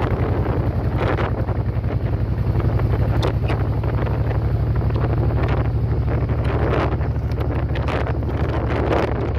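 Motorcycle engine running steadily at cruising speed while riding, with wind buffeting the microphone in repeated gusts.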